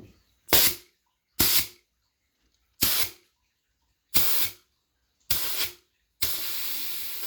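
Hissing bursts of pressurised gas released in short puffs, six times; the last is longer, about a second.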